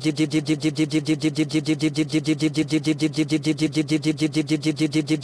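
Engine sound effect: a steady, even putter of about eight beats a second, like a car engine running.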